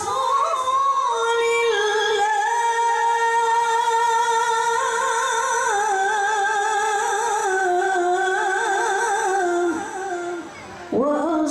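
A woman chanting in the ornamented Quran-recitation style, holding one long high melismatic line with rapid wavering turns. The voice dips near the end for a breath and then rises again.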